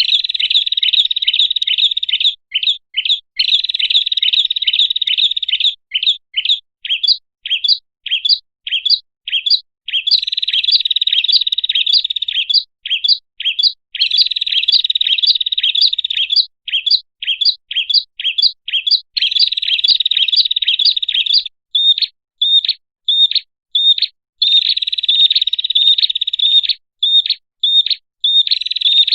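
Prinia (prenjak) song as played for a bird-lure recording: high, rapid chirps several a second, alternating with stretches of dense continuous trilling.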